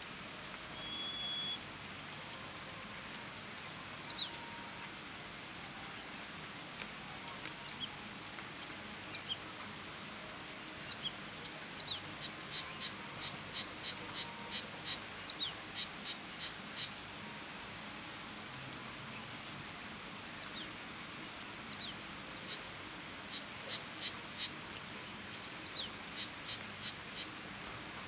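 Small bird giving short, sharp chirps, scattered at first, then in quick runs of about three a second, over a steady hiss of rain.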